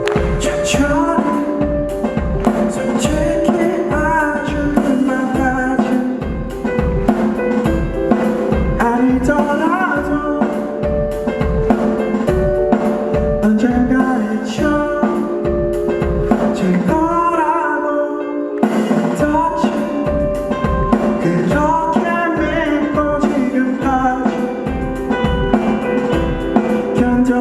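Live rock band playing the instrumental intro of a song: a steady drum-kit beat under bass and melodic guitar lines, with a short break about eighteen seconds in before the band comes back in.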